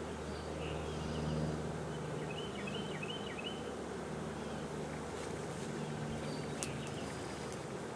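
A swarm of honeybees buzzing in a steady, wavering hum. A bird chirps a quick run of short notes about two to three seconds in.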